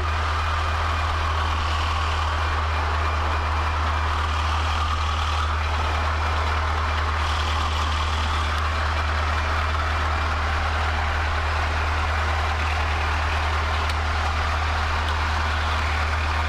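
Cessna 152's Lycoming four-cylinder aero engine and propeller running steadily at low power after landing, a constant drone with no change in pitch.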